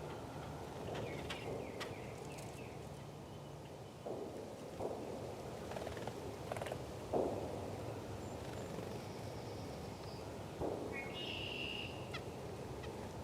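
Small woodland birds giving short calls, with a burst of chirping near the end, over a steady outdoor background noise; a few soft knocks sound now and then.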